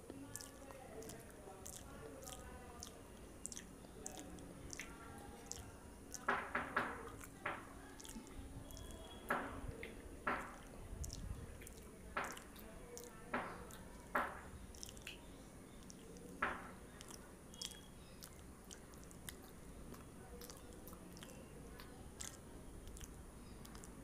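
A person chewing a fried snack close to the microphone, with wet mouth sounds. A string of sharp crunches and smacks comes in the middle, then the chewing goes softer.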